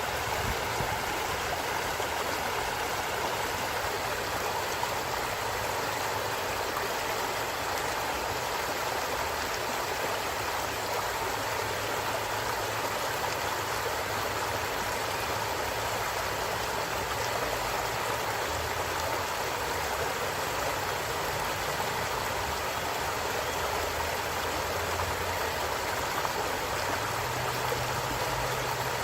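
A forest stream running, a steady, unbroken sound of flowing water.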